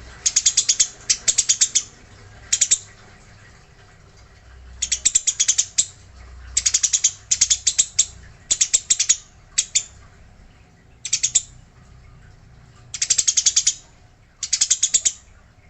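Eurasian tree sparrow (burung gereja) chattering in its agitated fighting call: quick runs of rapid, rattling chirps, each run about a second long, repeated about ten times with short pauses between.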